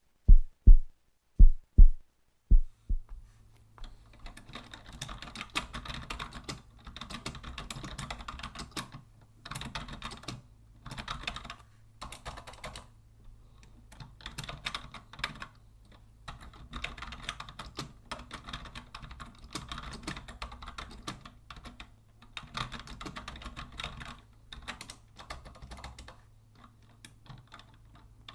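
Typing on a vintage Logitech Deluxe 104 wired keyboard: quick runs of key clicks in bursts with short pauses between them, over a steady low hum. It opens with about five loud, deep thumps before the typing starts about three seconds in.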